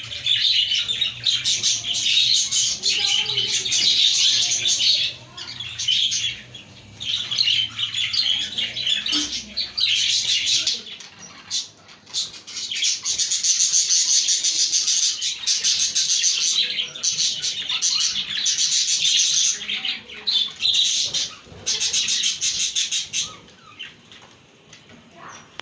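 A flock of budgerigars chirping and warbling together in dense, high chatter that comes in bouts with short lulls. The chatter thins out near the end.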